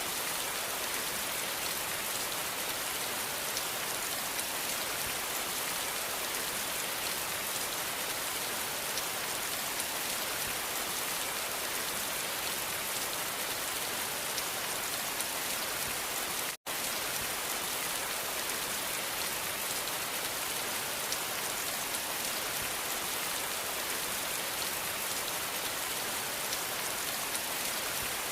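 Steady rain falling, an even hiss of fine drops. It cuts out completely for an instant about two-thirds of the way through, then resumes unchanged.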